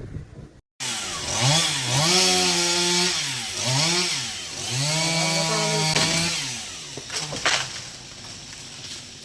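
Chainsaw cutting wood, its engine pitch rising and falling repeatedly with the throttle over several seconds before dropping away near the end.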